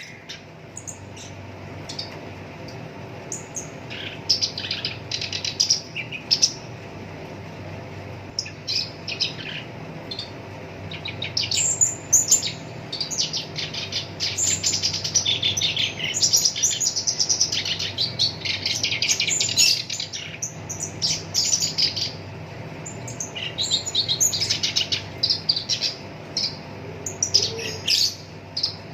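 Black-browed reed warbler singing: bursts of harsh, chattering phrases of rapid repeated high notes with short pauses between them, busiest in the middle stretch. A faint steady low hum sits underneath.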